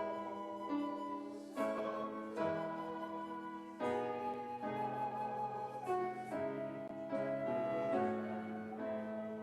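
Slow, quiet instrumental music on a keyboard instrument: sustained chords held for a second or two each before moving to the next.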